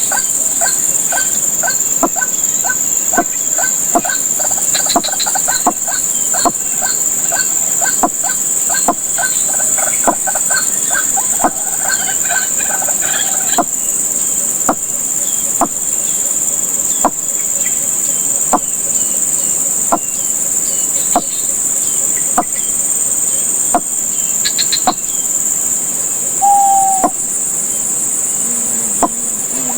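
Steady high-pitched drone of crickets or other insects. Through the first half a bird calls in a rapid run of short repeated notes, and a sharp tick recurs a little more than once a second.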